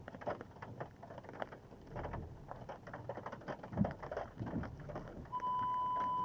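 Irregular patter and splashing of water, with a couple of heavier splashes. About five seconds in, a steady high electronic beep starts suddenly and holds.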